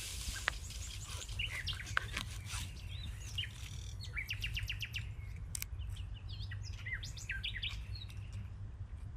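Small birds chirping, many short high notes scattered throughout, with a quick run of rapid repeated notes about four to five seconds in, over a steady low rumble.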